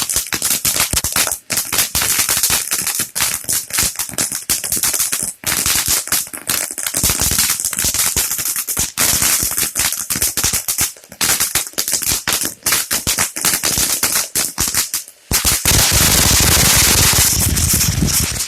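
Ground firework crackling and banging in a rapid, irregular stream of sharp cracks. After a brief pause near the end it turns into a continuous, dense crackle with a hiss, then cuts off suddenly.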